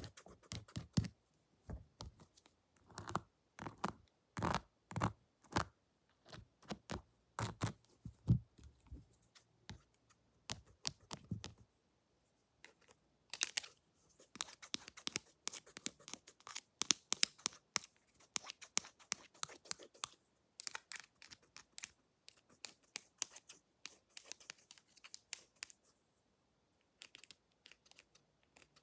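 Close-miked ASMR tapping and scratching from pretend haircut tools and hands near the microphone. Heavier taps come in the first dozen seconds, then quicker, lighter scratchy strokes.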